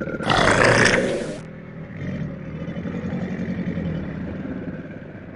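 Nile crocodile vocalizing: a loud, harsh hiss lasting about a second, then a low, steady growl for a few seconds.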